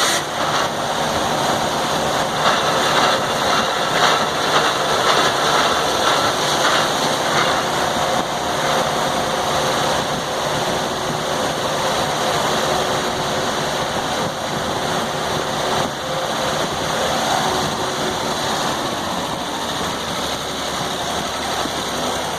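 Sawmill engine running steadily, with the mill's mechanical clatter over it.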